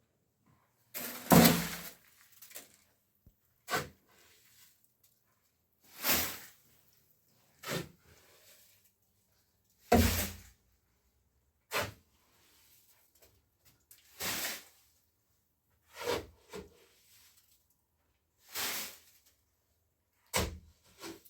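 Hand tool work: a scraping stroke about every four seconds, each followed by a shorter, sharper knock.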